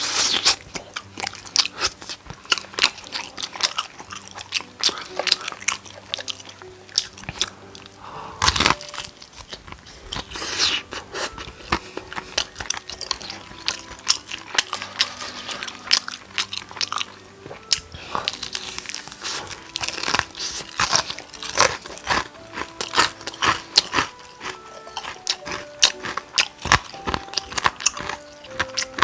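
Crispy Korean market-style fried chicken being bitten and chewed close to the microphone: dense, sharp crunching and crackling throughout, with a loud crunch about eight seconds in.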